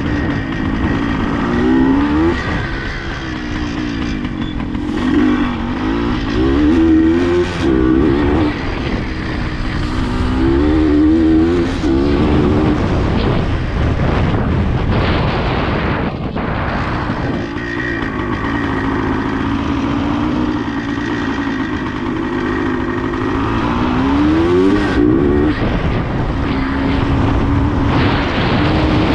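Suzuki TS400 Apache's single-cylinder two-stroke engine under way, revving up and shifting through the gears, its pitch climbing and dropping again and again with steadier stretches between.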